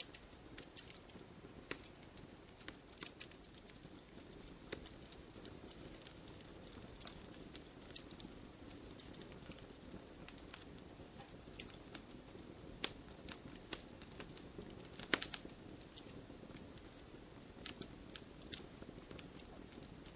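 Campfire burning, wood crackling and popping at irregular intervals over a low, steady rush of flame, with a short flurry of louder pops about three-quarters of the way through.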